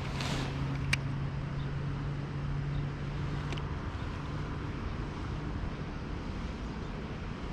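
Wind rumbling on the microphone, with a steady low hum for the first four seconds or so and a single sharp click about a second in.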